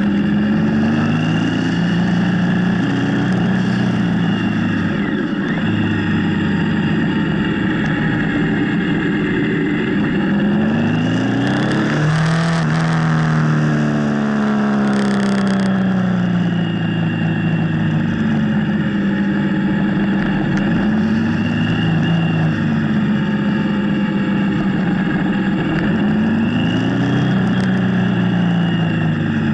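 Motorcycle engine under way, its pitch climbing and dropping again and again as it accelerates and shifts gears, over a steady rush of noise. About twelve seconds in, the revs climb steeply and fall, and the rush grows brighter for a few seconds.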